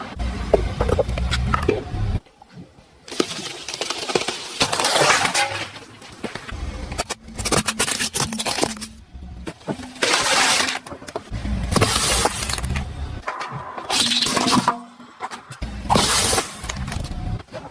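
Objects crunching and cracking as they are crushed under a car's tyres, in a string of separate crushing bursts over background music.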